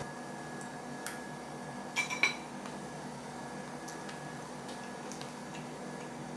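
A few light clicks and clinks over a faint steady background, with a short cluster of ringing clinks about two seconds in.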